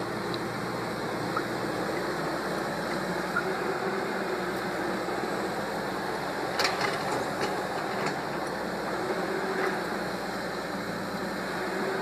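Cat 320 excavator's diesel engine running steadily, with a short cluster of sharp clanks about midway.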